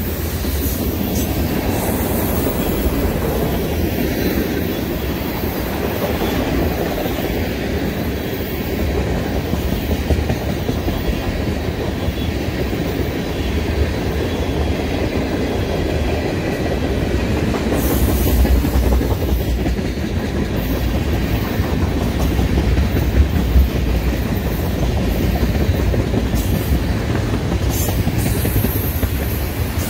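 Loaded freight cars rolling past at close range, centerbeam lumber flatcars and then tank cars, their steel wheels running on the rails in a steady rumble and clatter.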